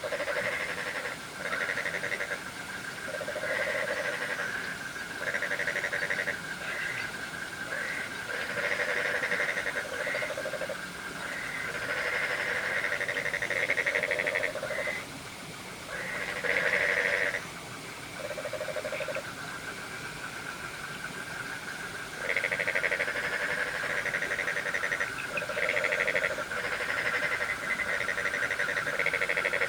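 A chorus of frogs calling in repeated croaking bouts about a second long, some overlapping, over a steady high trill of crickets.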